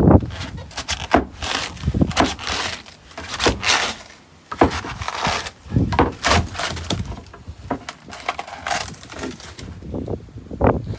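Wood being broken and pried apart: irregular cracks, knocks and splintering sounds.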